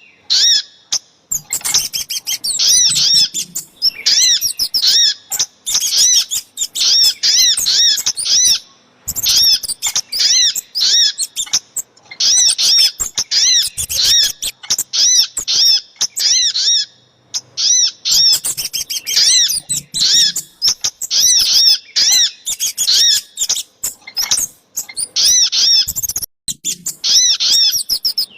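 Bird-lure recording of little spiderhunter (sogok ontong) calls combined with kemade calls: loud, rapid runs of high, arched chip notes, about three a second, broken by short pauses.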